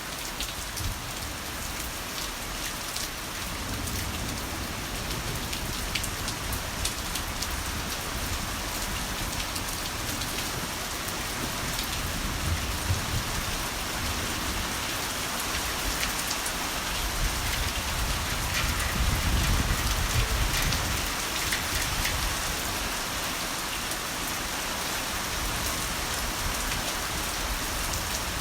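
Heavy rain falling steadily, with sharp drops ticking on surfaces. Low rolling thunder rumbles beneath it twice, the second and louder roll about two-thirds of the way through.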